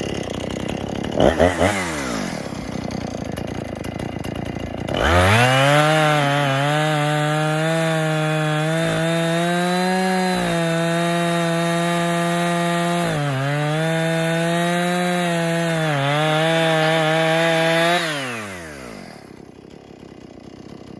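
Chainsaw running at low speed with a short blip of throttle, then revved up to full speed at about five seconds and held there cutting through a large fallen tree trunk, its pitch sagging briefly a few times under load. Near the end the engine winds down as the cut goes all the way through.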